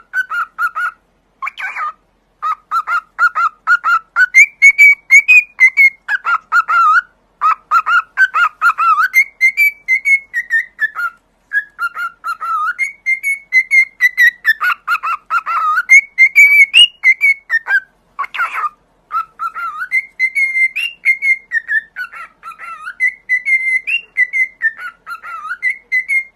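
Pet parrot chirping and whistling in rapid runs of short notes, its pitch jumping back and forth between a lower and a higher level, with brief pauses between runs.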